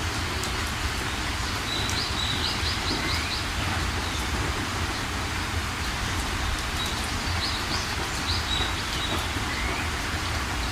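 Steady rain falling. A songbird sings two short phrases of about five quick high notes each, one about two seconds in and another about seven seconds in.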